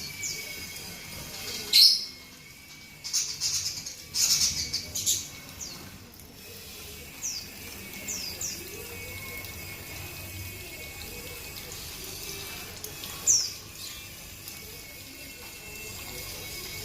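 Small pet parrots chirping: short, sharp calls that slide downward in pitch, mostly one at a time, with a quick run of chatter about three to five seconds in.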